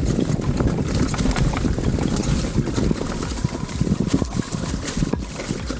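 Pivot Phoenix DH downhill mountain bike rolling fast over a dirt trail: steady tyre and wind rumble on the camera microphone, with frequent rattling clicks and knocks from the bike over bumps.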